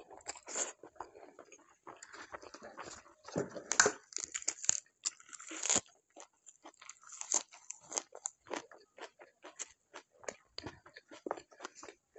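Close-miked mukbang eating: biting into and chewing food with crunchy, wet mouth sounds. The sounds come thick and loud through the first half, peaking about four seconds in, then thin out to separate chews and clicks.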